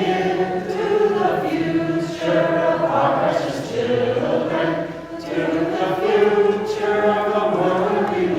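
A small vocal group singing a song together in harmony, the voices holding long notes.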